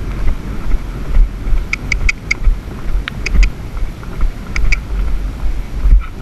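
Heavy, uneven low rumble of wind and movement buffeting a GoPro microphone while riding a pony. Several short, sharp high clicks come in small groups about halfway through.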